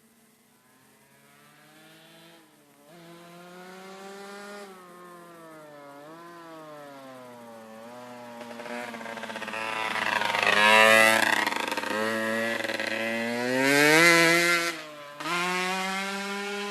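A motor vehicle's engine drives past on the road, its pitch climbing and dropping several times as it works up through the gears. It starts faint, grows louder to two loud peaks in the second half as it comes close, then fades.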